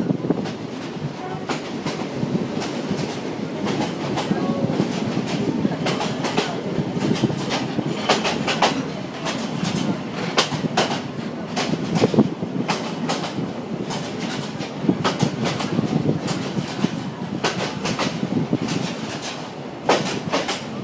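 Passenger train carriage running along the track, heard from inside at the window: a steady rumble and rattle with frequent clicks of the wheels over the rail joints.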